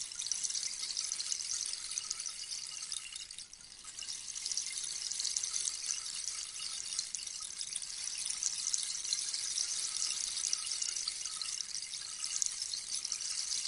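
Rainstick cascading: a dense, steady patter of many tiny pellets trickling down inside the tube, much like rain. It eases briefly about three and a half seconds in, then picks up again.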